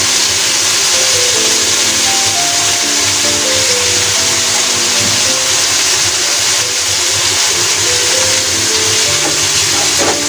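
Chicken pieces frying in oil in a wok, a steady loud sizzle, with background music playing over it. A short knock near the end.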